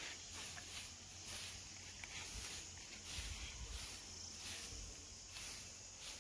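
Grass being cut in repeated swishing strokes, about two a second, over a low rumble.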